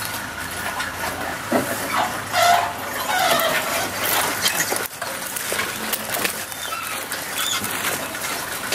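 Birds calling from the bush, with chirps and whistled glides about two to four seconds in, over scattered clicks and knocks.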